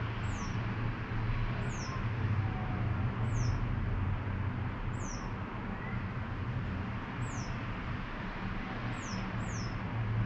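A small bird's thin, high-pitched calls, each a quick falling note, repeating about seven times at intervals of one to two seconds over a steady low background rumble.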